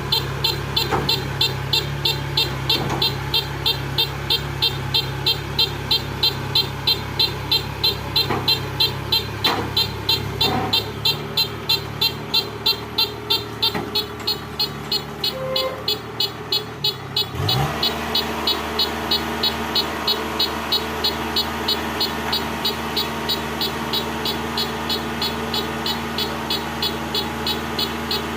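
Kubota tracked combine harvester's engine running with a rapid, even beeping of about two beeps a second over it. About 17 seconds in, the engine revs up and then holds at the higher speed.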